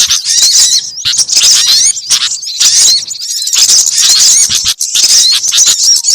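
Bird-lure recording of small songbirds chirping and twittering densely over one another, many quick high-pitched notes at once, thinning briefly about halfway through.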